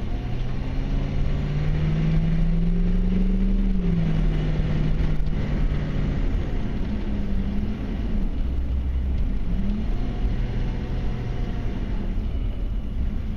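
6.5-litre turbo diesel V8 of a 1994 Chevy Silverado K1500 running under way. Its note rises for the first few seconds, drops about four seconds in, and climbs briefly again later on.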